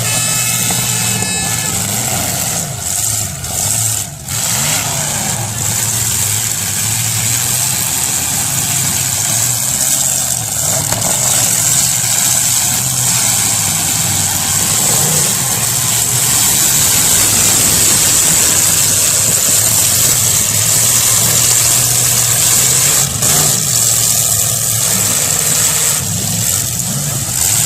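Demolition derby car engines running loud and steady, with a few short knocks in the first few seconds.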